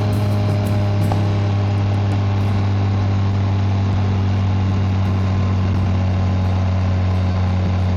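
BMW K1600GT motorcycle's inline-six engine and exhaust running at a steady, even speed, a constant low hum with no revving.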